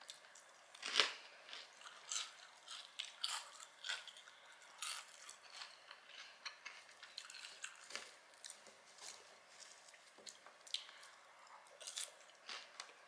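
Close-up eating sounds: chewing curly fries and a toasted sourdough burger, with a run of short crunching bites and mouth clicks, the loudest about a second in.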